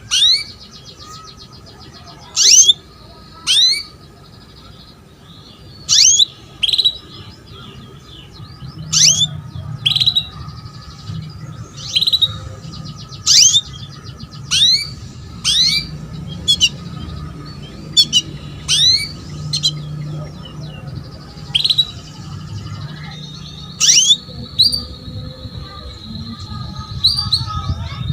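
Female canary calling to attract a male: short, sharp chirp notes repeated about every one to two seconds, some in quick pairs. Faint twittering and a low hum lie beneath.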